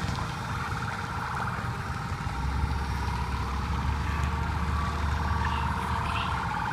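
Emergency vehicle siren sounding as a steady, rapidly pulsing high tone, with a low engine rumble joining about two seconds in.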